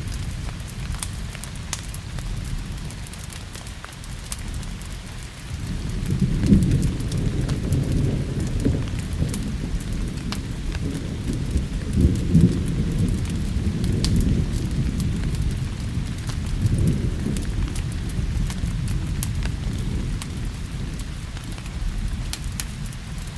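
Steady rain with rolling thunder: a deep rumble swells about six seconds in, peaks twice, and rolls on more softly, over scattered sharp ticks.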